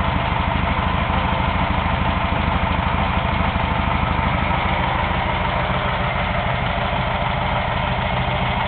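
1600cc air-cooled Volkswagen flat-four engine idling steadily, with an even rapid beat.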